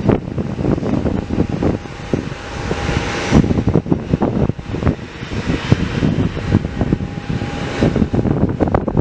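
Aircraft engines running, a steady rushing noise with a faint thin whine, under heavy wind buffeting on the microphone.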